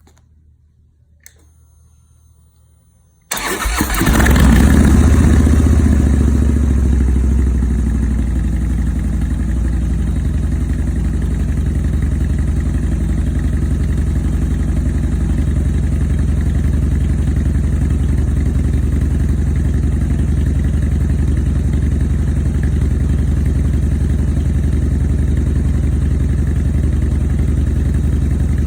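2017 Harley-Davidson Street Bob's V-twin, through a new Fab28 aftermarket exhaust, cold-starting after a faint click: it catches at once, runs loudest for the first few seconds at a raised cold idle, then settles to a steady, loud idle.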